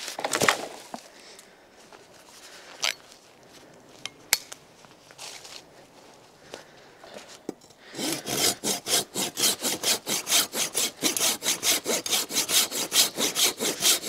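Hand saw cutting through wood in quick, even back-and-forth strokes, starting about eight seconds in; before that, only a few faint snaps and rustles.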